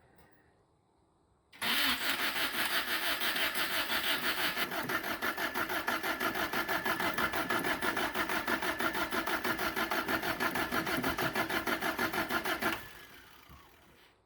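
1977 Toyota Celica's four-cylinder engine being cranked by its starter motor for about eleven seconds in an even, pulsing rhythm, then stopping abruptly without catching. It cranks but does not fire, which the owner puts down to a possible lack of spark.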